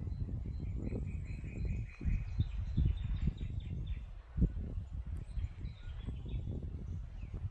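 Rural outdoor ambience: birds calling and trilling faintly over an uneven low rumbling noise, with a stronger thump about four and a half seconds in.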